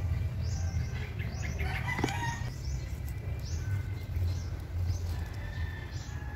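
Small birds chirping, short high calls repeating every second or so, over a steady low rumble.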